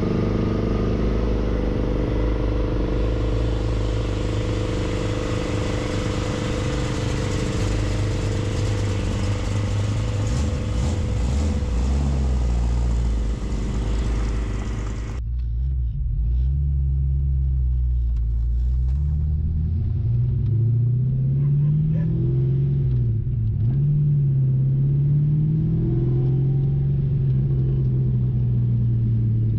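Freshly rebuilt Fox-body Ford Mustang 5.0 V8 running on the road. For about fifteen seconds the engine note is steady under heavy road and wind noise. Then the sound changes abruptly to a clearer engine note whose pitch rises and falls again and again as the throttle is worked.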